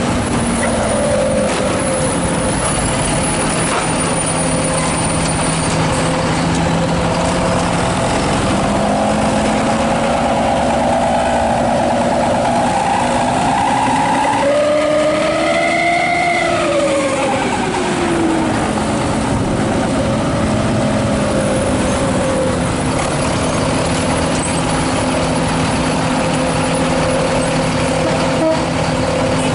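ALS 246 bus engine running through its 'srigala' (wolf-howl) exhaust. It holds a steady drone, then is revved up and back down about halfway through, so the howl rises and falls in pitch.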